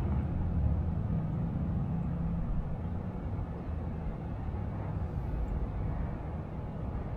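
Low, steady outdoor rumble of distant street traffic, easing slightly toward the end.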